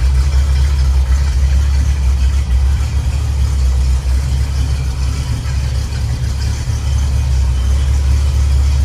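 A 1960 Chevrolet C10 pickup's mild small-block 350 V8, fitted with headers, idling steadily.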